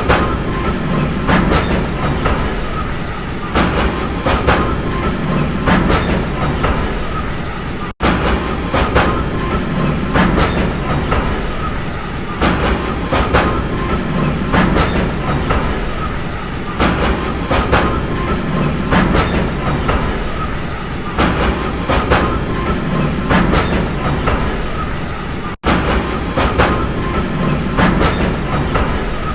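A train running on the track: a steady rumble with wheels clicking over rail joints in small groups every second or two. The sound cuts out for an instant twice.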